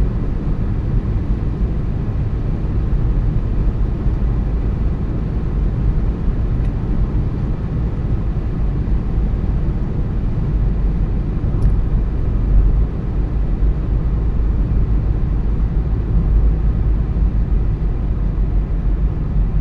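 Car's road and engine noise heard from inside the cabin while driving at steady speed: a continuous low rumble of tyres and engine.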